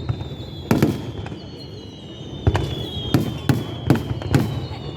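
Fireworks shells bursting: a sharp bang about a second in, then a quick run of five more from two and a half seconds on. Under them runs a thin high whistle that slowly falls in pitch.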